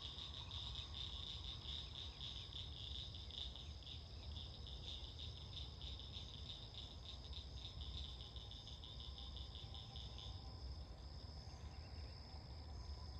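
Night chorus of calling animals: a fast pulsing trill that stops about ten seconds in, over a steady high-pitched tone and a low background rumble.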